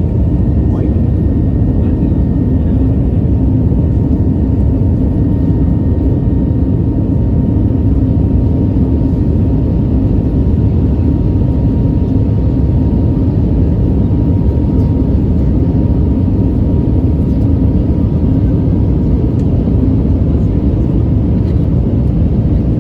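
Airbus A320 cabin noise: a steady, loud rumble of the jet engines and airflow heard from inside the passenger cabin, with a faint high whine that fades out over the stretch.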